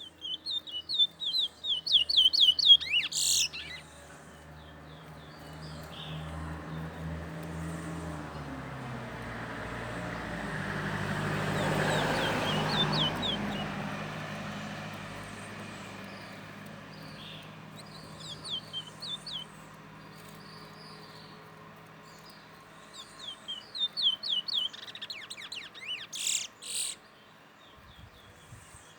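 A bird that Barbadians call the towa towa, singing in quick runs of short, sweeping high chirps, loudest in the first few seconds and again near the end. A broad rushing noise swells and fades in the middle.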